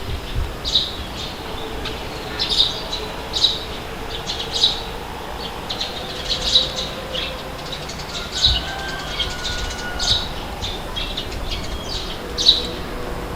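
Birds chirping in short, sharp calls, roughly once a second, over a steady low rush of wind.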